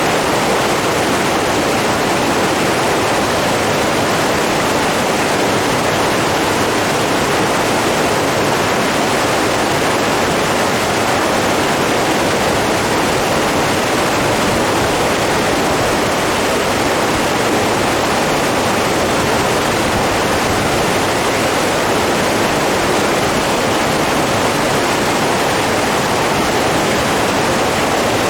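Steady rushing of running water, an even, unbroken noise that does not change.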